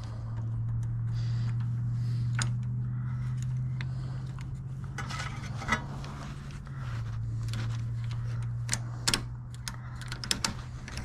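Small metal parts and hand tools clicking and clinking as parts are fitted back onto a snowblower engine, with a steady low hum underneath. The clinks get more frequent in the second half.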